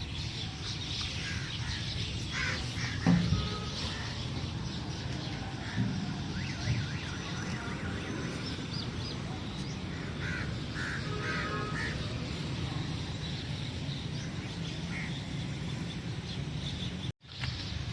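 Outdoor station ambience: a steady low rumble with birds chirping now and then, busiest about two thirds of the way through, and a couple of short knocks early on.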